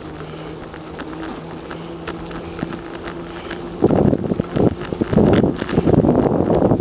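Bicycle riding along a trail. A steady low hum runs for about the first four seconds. Then gusts of wind buffet the microphone.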